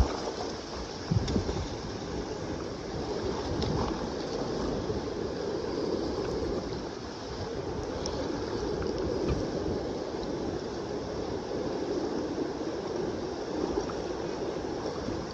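Steady rush of the Kenai River's flowing water, with a brief knock about a second in.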